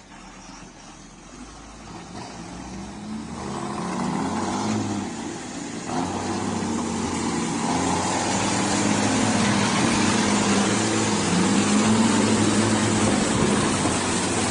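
A vehicle engine running, growing steadily louder over the first several seconds and then holding at a loud, even level.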